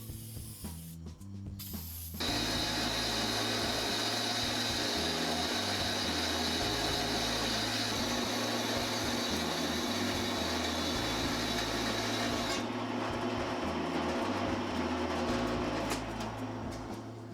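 A loud, steady hissing power-tool noise over background music. It starts suddenly about two seconds in and eases off near the end.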